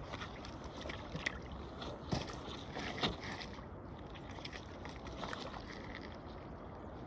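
Steady rush of flowing river water, with a few faint knocks in the first few seconds.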